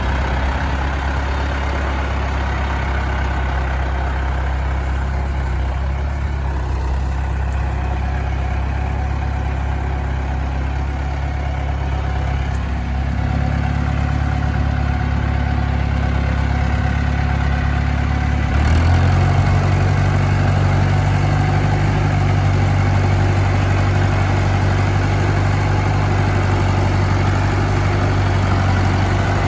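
International Harvester 574 tractor engine running steadily, its speed stepping up a little about halfway through and again more sharply about two-thirds of the way in.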